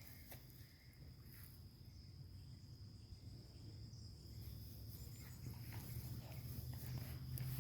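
Faint steady high-pitched insect trill, the kind a cricket makes, over a low rumble, with a few light clicks and rustles.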